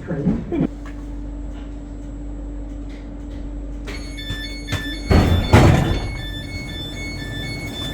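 Class 484 train at a station stop: a steady low hum, then repeated high door beeps starting about four seconds in, and the passenger doors sliding open with a loud rush about five seconds in.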